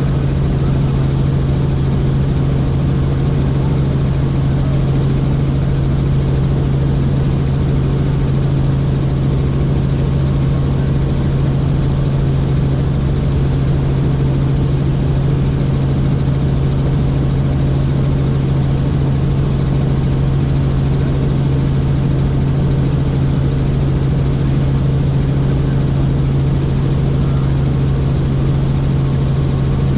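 Helicopter in steady flight, its rotor and turbine noise heard from inside the cabin as a loud, even drone with a strong low hum.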